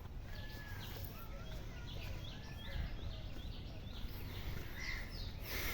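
Small birds chirping outdoors: many short, quick chirps repeating over and over, with a few lower whistled call notes and a low background rumble.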